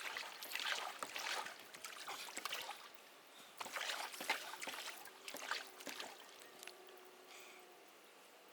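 Water splashing and lapping in irregular bursts about once a second, dying down after about six seconds.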